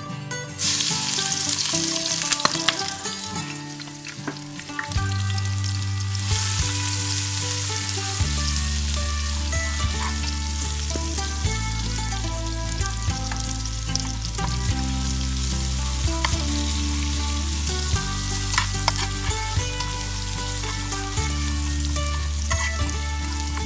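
Chopped aromatics and red chilli sizzling in hot oil in a nonstick frying pan, stirred with a plastic spatula. The sizzling starts suddenly about half a second in as they go into the oil, eases off for a few seconds, then comes back strongly. Background music with a steady bass line plays underneath.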